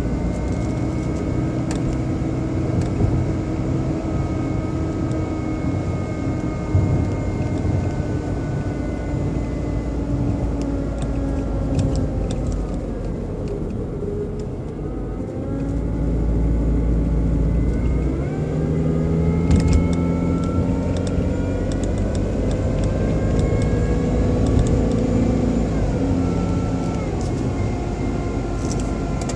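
BMW 120i (E87) engine running, with a motor-like whine whose tones follow engine speed. The pitch sinks about halfway through as the revs drop, then rises again as they come back up. This is a noise that an oil change did not cure; the owner thinks it comes from behind the air cleaner box.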